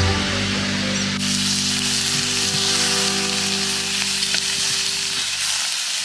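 Sausages and pork belly sizzling on a steel hotplate over a campfire, the hiss beginning about a second in and running on steadily. Steady low tones of background music lie under it and stop about five seconds in.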